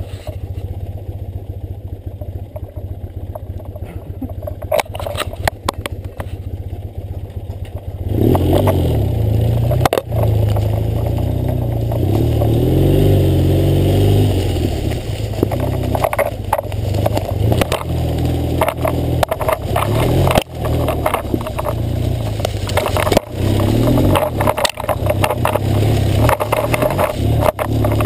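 BMW R100GS Paris-Dakar's air-cooled flat-twin engine running at low revs, then opening up and pulling harder from about eight seconds in as the bike rides a wooded trail. Frequent short knocks sound over the engine throughout.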